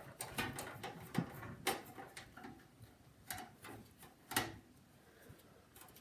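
Irregular light clicks and metallic taps of a screwdriver working the mounting screws out of a CD drive in a PC case, with a sharper knock about 1.7 s in and another about 4.4 s in.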